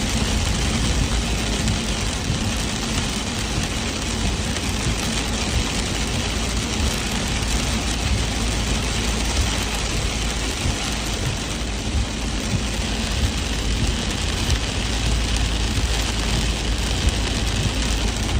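Heavy rain falling, a steady even hiss over a constant low rumble.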